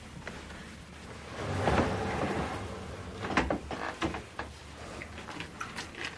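Room door and handling noises: a longer creak-and-rustle about one and a half seconds in, then a run of short clicks and knocks.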